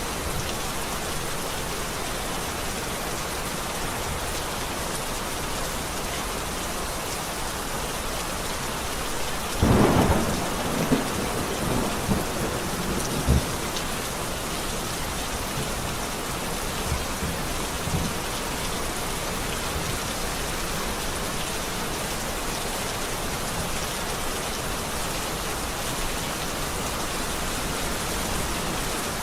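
Steady heavy rainfall in a thunderstorm. A loud thunderclap comes about ten seconds in, rumbling on in a few rolls over the next few seconds, with fainter rumbles a little later.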